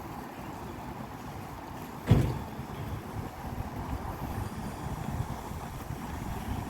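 A moving train makes a steady low rumble, with one sharp knock about two seconds in, such as a carriage jolting over a rail joint.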